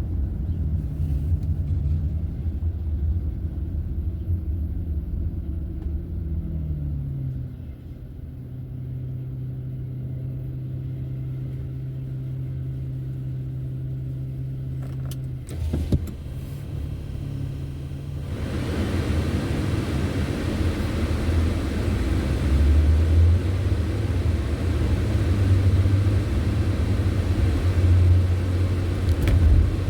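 A car driving: the engine note drops as it slows, then holds a steady low hum with little road noise, a single knock comes about sixteen seconds in, and road and tyre noise swell as the car picks up speed again.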